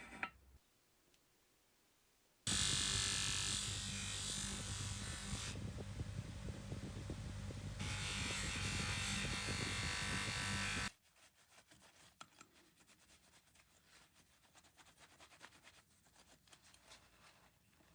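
A small electric power tool motor starts up about two seconds in and runs steadily for about eight seconds, with a hum under it and a change in its high, gritty sound twice along the way. Then it stops abruptly, and faint light ticks and scrapes follow.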